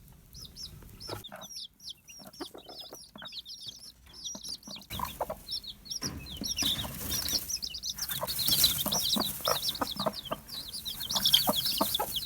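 Many week-old chicks peeping rapidly and without pause, getting louder about halfway through, with short low clucks from a broody bantam hen among them.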